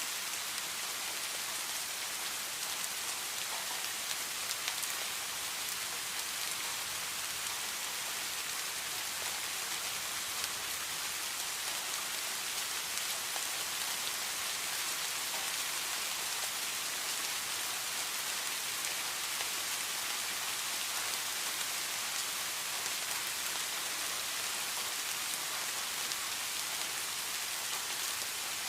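Steady heavy rain falling, an even hiss with many fine drop patters, unchanging in level throughout.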